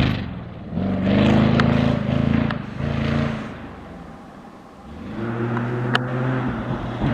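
Rally-raid vehicle engine revving hard under acceleration, then fading away about four seconds in, with a second engine coming up from about five seconds; a few sharp clicks are heard along the way.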